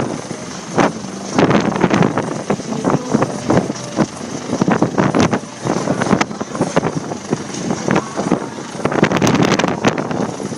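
US Coast Guard rescue helicopter hovering over the ship, its rotor and engine noise nearly buried under heavy, irregular wind gusts hitting the microphone.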